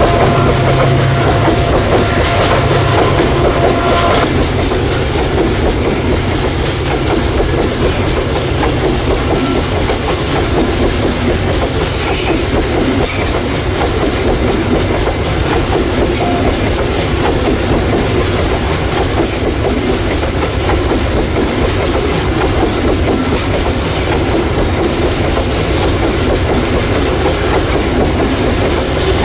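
Train wagons rolling past, their wheels clacking over the rail joints in a steady, loud rumble. A steady tone is heard alongside during the first few seconds and stops about four seconds in.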